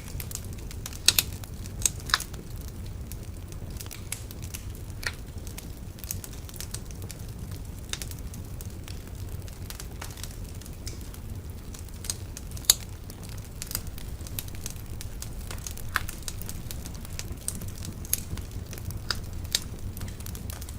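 Wood bonfire crackling: irregular sharp pops and snaps, a few louder ones at about a second in, two seconds in and past the middle, over a steady low rumble.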